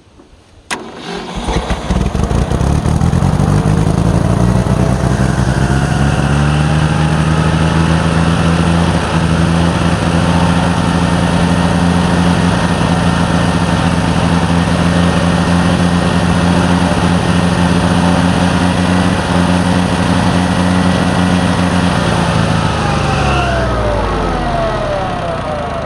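A sharp click about a second in, then a 1966 Ford 3000 tractor's three-cylinder gasoline engine catches and runs at a steady speed, starting after a year of sitting. Near the end the engine slows down and dies.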